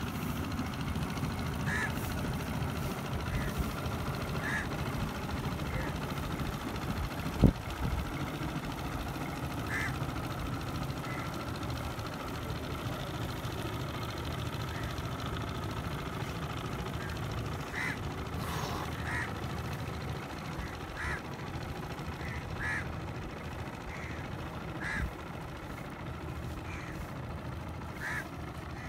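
Short bird calls repeated irregularly over a steady low rumble, with one sharp knock about seven seconds in.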